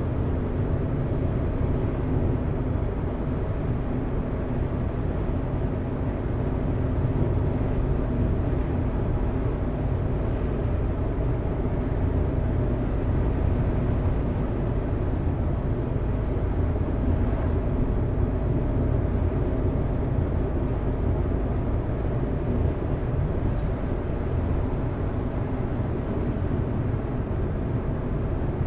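Car driving at a steady pace: a constant low rumble of engine and tyres on the road, with a faint steady hum and no change in speed.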